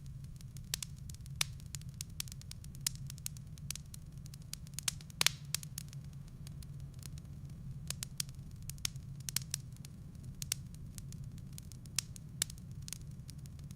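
Firewood burning in a fireplace: irregular crackles and sharp pops over a steady low rumble, with one louder pop about five seconds in.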